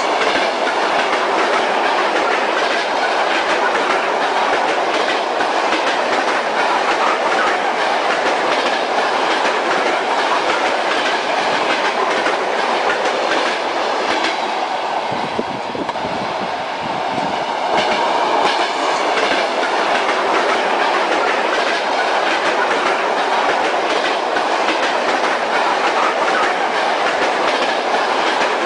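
Railway carriage rolling along steadily, wheels clacking over the rail joints under a constant rumble of wheel and track noise. About halfway through the sound turns duller and deeper for a few seconds, then brightens again.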